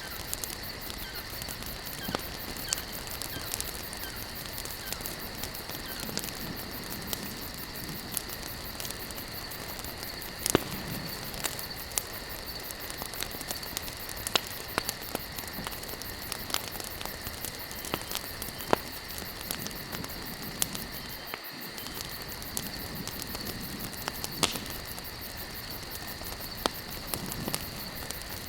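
Campfire of burning wood logs crackling and popping: a constant hiss dotted with many sharp snaps, a few louder pops standing out, over a steady high-pitched hum in the background.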